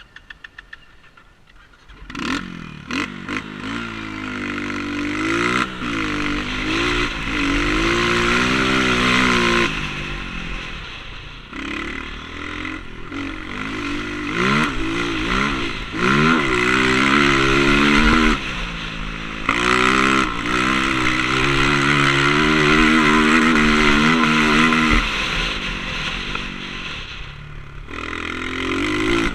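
Motocross bike engine, quiet at first, then running hard from about two seconds in, its pitch climbing and dropping again and again, with scattered clattering knocks.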